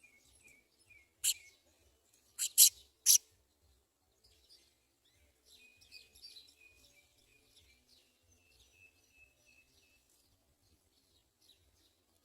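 House sparrows chirping: four sharp, loud chirps in the first three seconds, then a run of faint, quick, repeated chirps.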